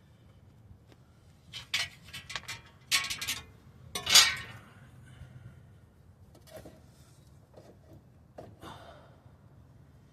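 Metal tools and steel suspension parts clanking and clinking together: a quick cluster of knocks about two seconds in, then the loudest clank, ringing briefly, about four seconds in, and a few fainter knocks later.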